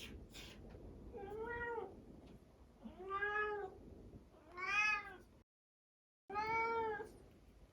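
Minuet cat meowing four times, each meow rising then falling in pitch and lasting under a second.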